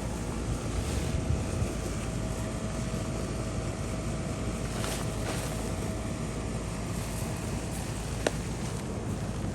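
Wind buffeting the microphone outdoors: a steady low rumble, with one sharp click about eight seconds in.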